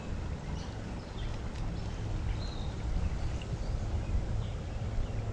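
A steady rumble of wind on the microphone and flowing creek water, with short, high bird chirps scattered throughout.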